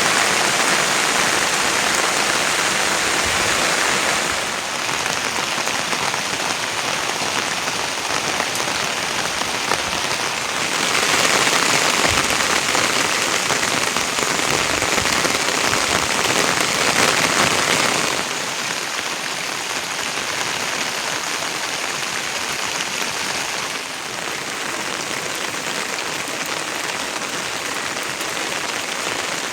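Steady rain falling, an even hiss that grows louder for several seconds in the middle and drops a little toward the end.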